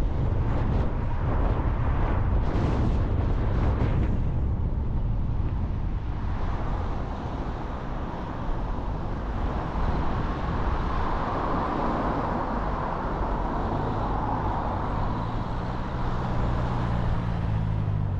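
Car driving along: steady low road and engine rumble, with a steady engine hum coming in near the end.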